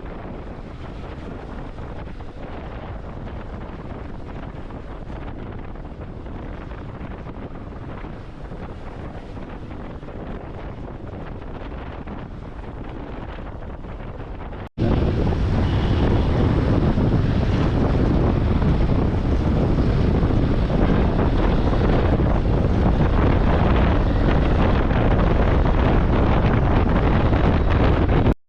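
Steady rush of wind and road noise while travelling along a rain-wet road, with wind buffeting the microphone. About halfway through it cuts off abruptly and comes back noticeably louder.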